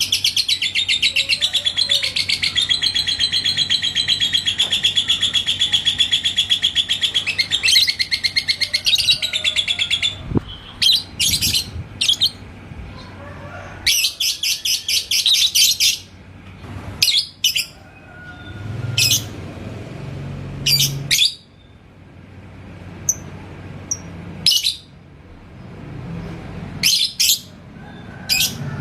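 Yellow lovebird singing: a long, fast, unbroken rattling trill (the 'ngekek' song) for the first ten seconds or so, then short bursts of chirping with pauses between them.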